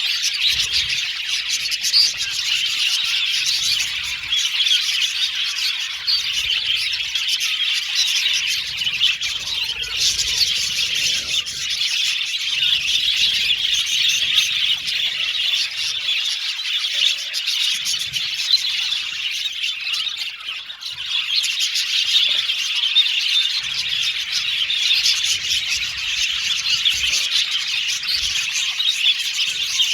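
A colony of budgerigars chattering, chirping and squawking together in a dense, continuous chorus, easing off briefly about two-thirds of the way through.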